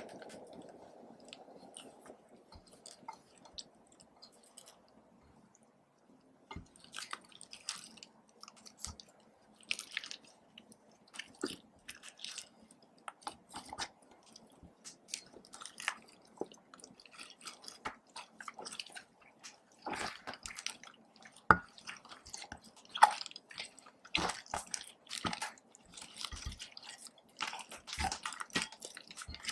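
Slime being squished and mixed, giving many short wet clicks and pops that start a few seconds in and grow louder toward the end.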